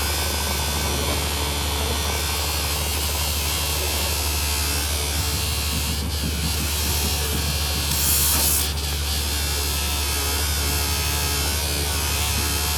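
Workshop machinery running with a steady electric buzz over a low hum, with a short sharp hiss about eight seconds in.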